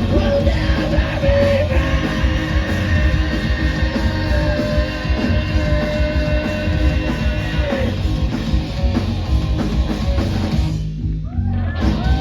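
Punk rock band playing live, with loud distorted guitars, drums and yelled singing. The sound thins out sharply near the end.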